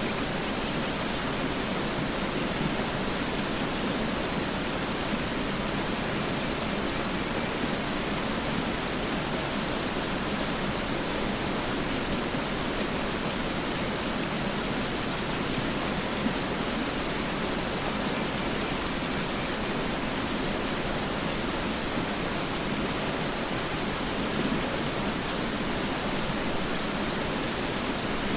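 Mountain river rushing over rocks: a steady, even wash of water noise with no change in level.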